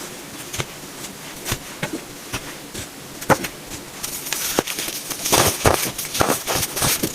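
Compacted baking soda being crushed by hand, giving sharp, irregular crunches and squeaky crackles. They are sparse at first and grow dense and crisp from about four seconds in.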